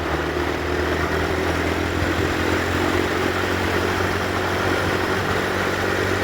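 Yamaha TW200's single-cylinder engine running steadily as the motorcycle rides along, over an even rushing noise.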